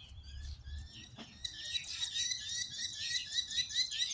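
Small birds chirping: many short, quick, overlapping notes, growing busier and louder about a second and a half in.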